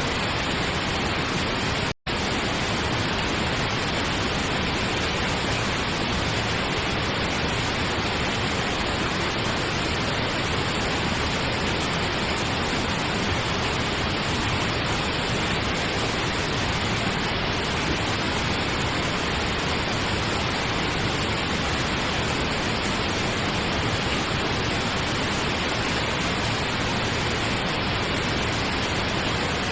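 Steady pink noise: an even, unchanging hiss spread across the whole range, cutting out for a split second about two seconds in.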